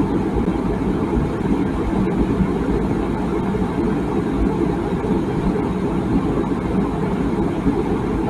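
Water boiling in a tea kettle: a steady, low rushing bubble with no whistle.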